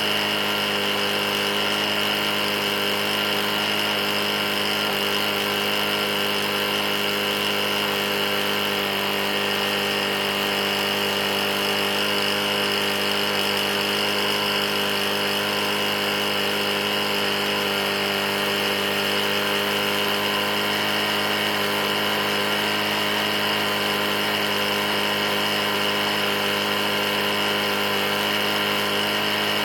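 Briggs & Stratton E450 lawn mower engine running steadily at constant speed. The engine has a bad knock from being run nearly out of oil.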